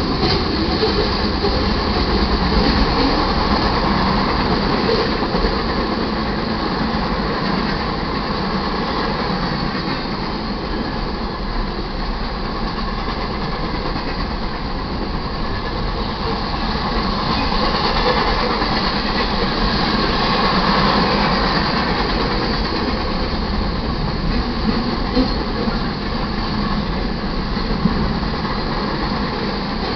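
Freight cars of a mixed manifest train (tank cars, boxcars and covered hoppers) rolling past: a steady rumble and rattle of steel wheels on the rails.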